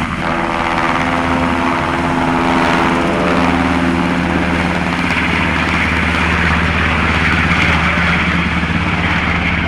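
Firefighting helicopter running steadily, its rotor and engine making an even hum with steady tones. A broad hissing noise grows stronger about halfway through.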